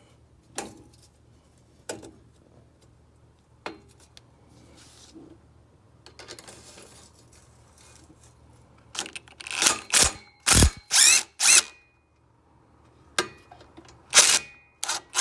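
Power tool run in short bursts, about five in quick succession from about nine seconds in and two more near the end, with a few scattered clicks of tools before them. Bolts are being run in as the exhaust is bolted up.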